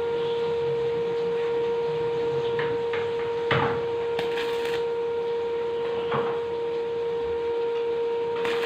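Welding machine giving a steady electrical hum over a light hiss, with a couple of short metal knocks, about three and a half and six seconds in.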